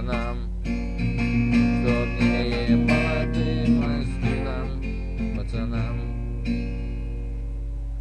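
Guitar playing the instrumental ending of a song without singing: strummed and picked chords, the last one struck about six and a half seconds in and left to ring out. A steady low hum runs underneath.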